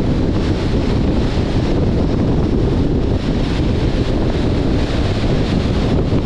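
Steady wind rush buffeting the microphone of a camera on a moving car, heaviest in the low end, with no separate events.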